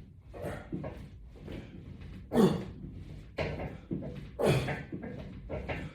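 A man's hard breathing and grunting in rhythm with resistance-band exercise reps, a breathy burst about every second. Two louder grunts that drop in pitch come about a third and two-thirds of the way through.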